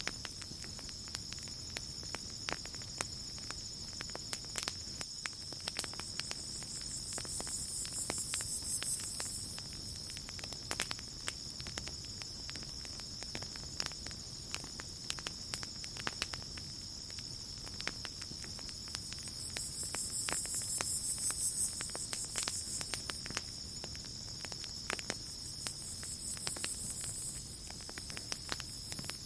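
Crickets chirping in a steady high trill, with the sharp crackles and pops of a wood campfire scattered throughout. A higher, pulsing insect chorus swells up and fades three times, at about 7, 20 and 26 seconds in.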